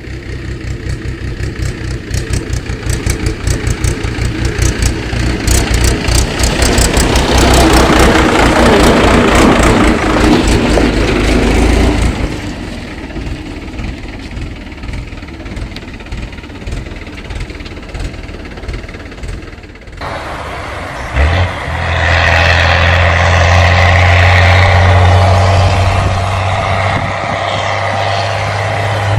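Motor vehicle engine running, building from a pulsing low rumble to a louder run; about two-thirds of the way through it cuts abruptly to a steadier, stronger engine hum.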